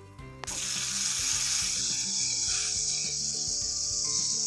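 Minced garlic sizzling in hot oil in a pan as a red sauce is stirred in; the sizzle starts suddenly about half a second in and then holds steady.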